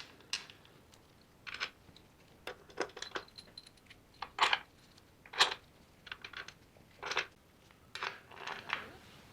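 Small metal parts clinking and clicking as they are handled: about a dozen sharp, separate clinks at irregular spacing.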